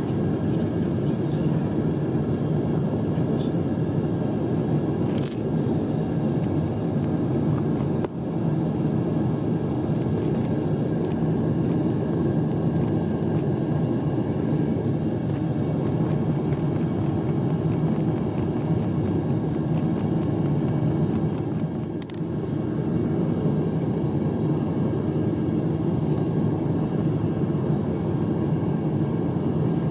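Propane-fired melting furnace burner running with a steady low roar, dipping briefly twice.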